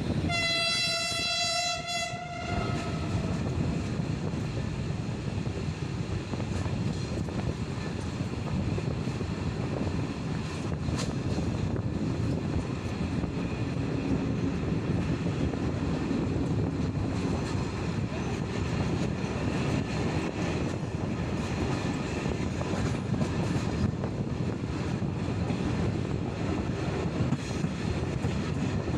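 A diesel locomotive's horn sounds once, a single steady note lasting about two seconds, followed by the steady rolling noise of the passenger train's carriages running along the track, heard from a carriage window.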